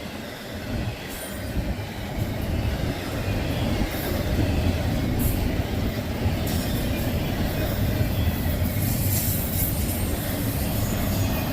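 Freight train passing close by: a steady rumble of cars rolling over the rails, with brief high-pitched noises now and then.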